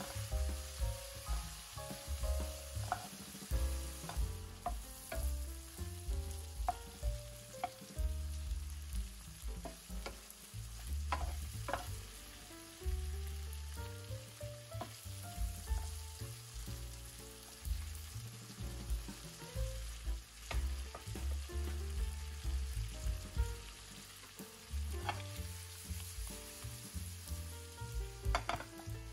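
Shrimp sizzling in butter and oil in a nonstick frying pan as a wooden spatula stirs them, with a few sharp knocks of the spatula against the pan. Soft background music plays underneath.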